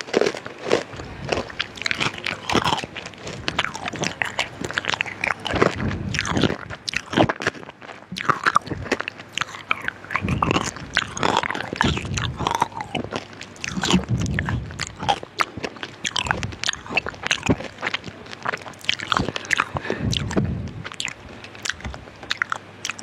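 Close-miked mouth sounds: a dense, irregular run of wet clicks, smacks and chewing noises.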